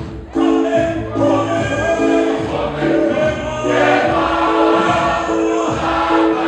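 A choir singing a gospel song over instrumental backing with a steady bass line.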